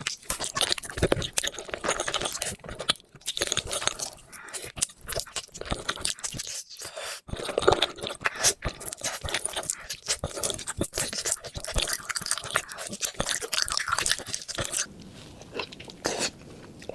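Close-miked eating of cooked beef feet: a dense run of chewing, biting and crunching clicks that thins out and goes quieter near the end.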